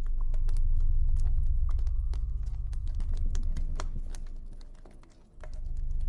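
Campfire crackling, with frequent sharp irregular pops over a deep low rumble that fades out about five seconds in and swells back.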